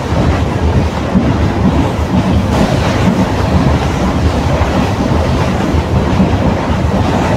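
ICF passenger coach running at speed, a steady loud rumble of its wheels on the rails, heard from an open coach doorway.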